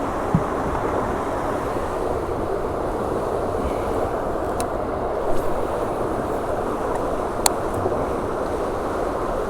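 Steady outdoor rushing noise, like wind on the microphone, with a few faint sharp clicks.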